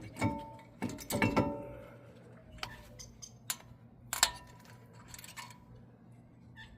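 Metallic clinks and rattles of disc brake pads and their steel hardware clips being handled at the caliper bracket, a dozen or so light strikes, some ringing briefly.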